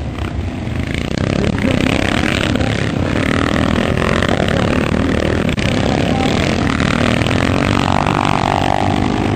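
Motocross motorcycles racing, several engines revving and running together, getting louder about a second in.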